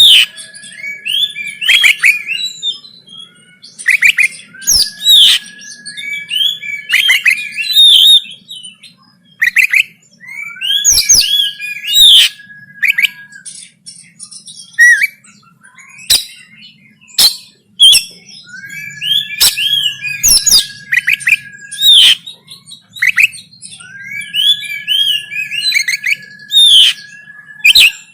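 Oriental magpie-robin singing in its rapid 'konslet' fighting song: phrases come about every three to four seconds, each a held steady whistle under fast, jumbled chirps and sharp clicking notes. A faint low hum runs underneath.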